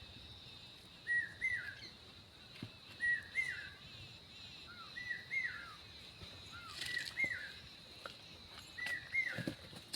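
A bird calling the same short whistled phrase over and over, about once every two seconds, each phrase a level note followed by a quick rise and fall. A steady high-pitched whine runs underneath.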